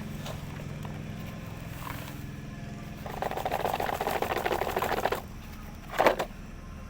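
A small motor running with a steady hum, then a fast mechanical rattle for about two seconds, and a short louder burst near the end.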